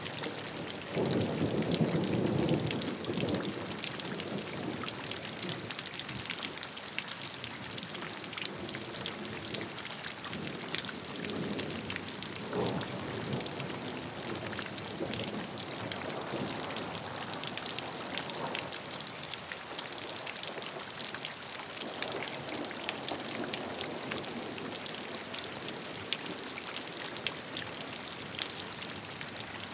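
Steady rain falling on a surface, with individual drops ticking sharply over the hiss. Low rumbles of distant thunder swell and fade a few times, strongest a second or two in.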